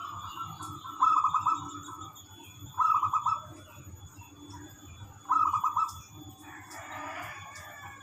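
Zebra dove (perkutut) cooing: three short, rapidly pulsed trilled coos, followed near the end by a longer, rougher call.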